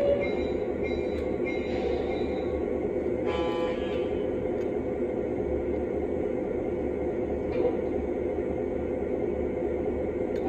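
Lionel Legacy O-gauge model train running along its track with a steady rolling rumble and motor hum, and a short horn toot from its onboard sound system about three seconds in.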